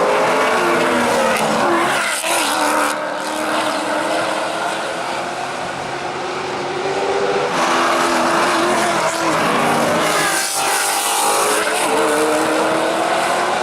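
Maserati GranTurismo MC Trofeo race cars with V8 engines going past at racing speed, several engine notes overlapping and rising and falling in pitch. The sound dips a little in the middle, then a louder car comes through past the halfway point.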